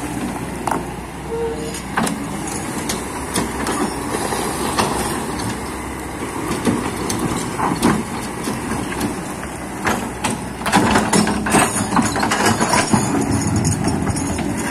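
Kobelco excavator's diesel engine running steadily, with repeated knocks and scrapes from the bucket working the earth, busiest about ten seconds in.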